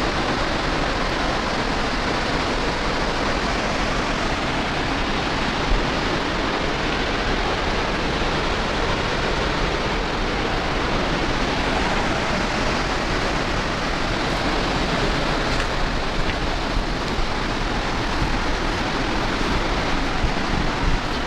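Waterfall running steadily: a constant, even wash of falling-water noise.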